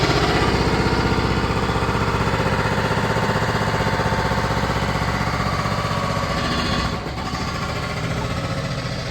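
Construction machinery running steadily with a fast, even hammering over an engine, like a jackhammer at work. It eases off slightly about seven seconds in.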